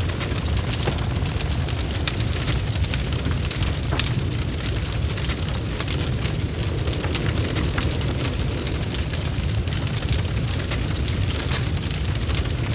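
Wood fire burning, with a steady low rumble of flames under frequent sharp, irregular crackles and pops.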